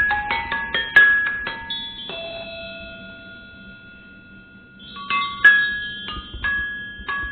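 Mallet percussion played freely: a quick flurry of struck, ringing pitched notes, a few held notes dying away in the middle, then another flurry of strikes near the end.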